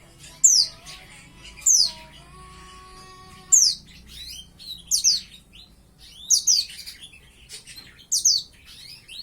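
Young white-eye (pleci) calling: six short, sharp, high chirps, each sweeping downward, repeated every second or two. A bird about five months old that is just starting to learn to sing.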